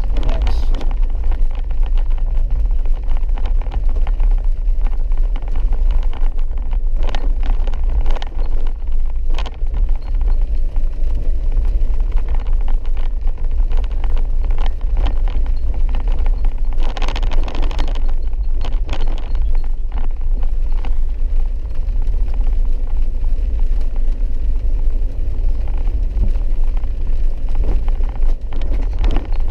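Vehicle driving on a rough, wet dirt road: a steady low rumble with frequent knocks and rattles, and a brief hissing burst about seventeen seconds in.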